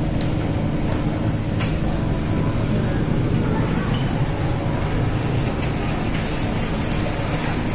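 MTR East Rail Line R-Train electric multiple unit running into the platform: a steady rumble of wheels and car body with a low, even hum under it, and a few faint clicks.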